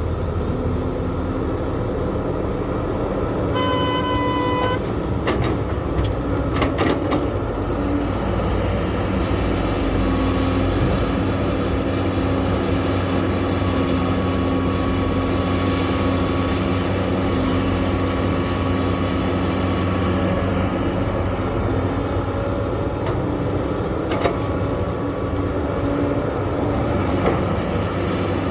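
Heavy earthmoving machinery engines running steadily, with a horn sounding once for about a second a few seconds in, followed by a few sharp knocks.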